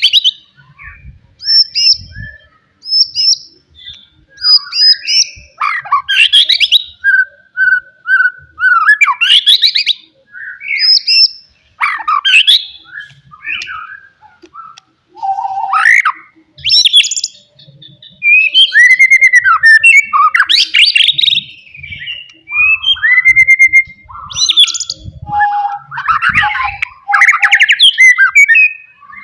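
White-rumped shama singing a loud, varied song: clear whistles, sweeping notes, fast trills and harsher chattering notes, in phrases a second or two long with short pauses between them.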